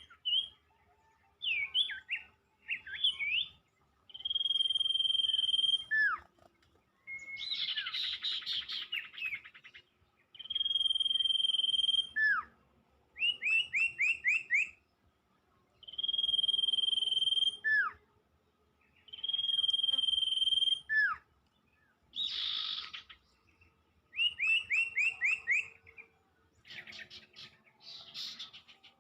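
Songbird calling over and over: a long, level high whistle ending in a quick falling note, alternating with rapid runs of short chirps and a few harsh buzzy notes.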